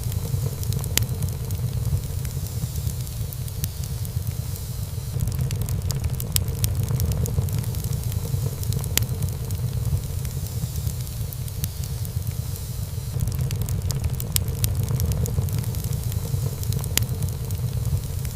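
Wood fire burning in a fireplace: a steady low rumble of flames with soft hissing, broken by scattered sharp crackles and pops of the burning wood.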